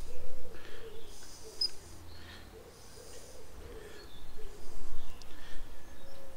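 A bird cooing in repeated phrases, over a low background rumble.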